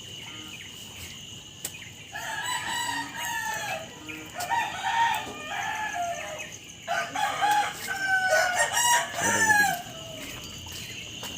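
Roosters crowing, one crow after another through most of the stretch, over a steady high-pitched background tone.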